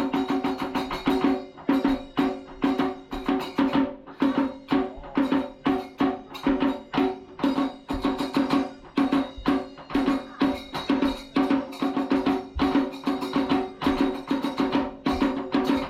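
Kagura festival music: a quick, steady beat of sharp drum strikes over a sustained pitched note.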